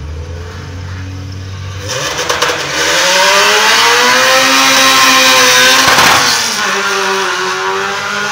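Honda Civic sedan's engine idling, then revving hard from about two seconds in as the car launches off a drag strip start line. The pitch climbs, drops sharply with a gear shift about six seconds in, then climbs again.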